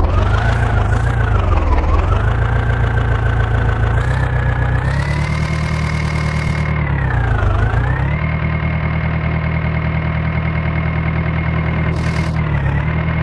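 Diesel engine of heavy earth-moving machinery running, its speed dipping and then picking back up twice, about two seconds in and again past the middle, before settling steady.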